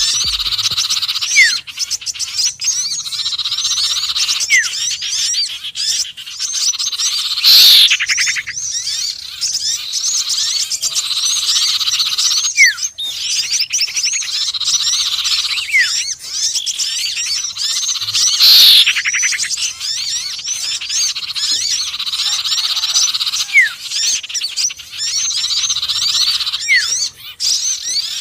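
Bird-lure recording mixing the calls of sirtu, konin and sepah raja (scarlet minivet): a dense, steady twittering chorus laid in a loop. Short thin rising notes recur every few seconds, and a loud downward-sweeping call comes twice, about a third and two-thirds of the way through.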